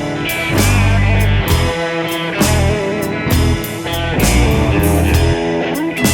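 Blues-rock music with no vocals: electric guitar playing over bass and a steady drum-kit beat.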